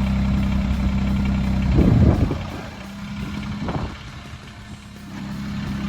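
Compact tractor's diesel engine running with a steady hum. About two seconds in there is a brief loud burst, then the engine sound drops lower for a few seconds before coming back up near the end.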